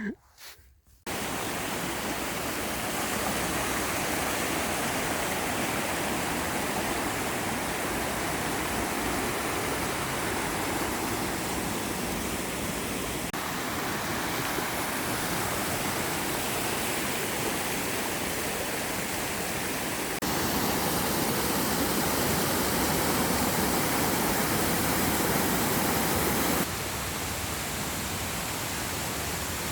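Steady rushing of fast-flowing water, a continuous hiss of white water with no tones in it. It starts abruptly about a second in, and its level shifts suddenly three times, about 13, 20 and 27 seconds in.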